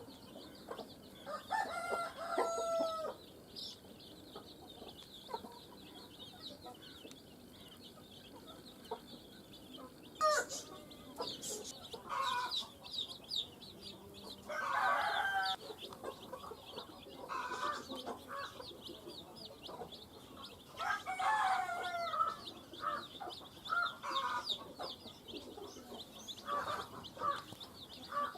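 A brood of chicks peeping continuously, with louder clucks and calls from adult chickens every few seconds.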